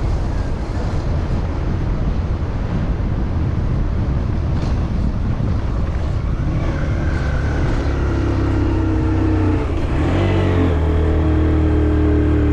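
Road and wind rush, then a motor vehicle's engine note that comes in about six seconds in and grows louder. It dips briefly near ten seconds, then returns stronger.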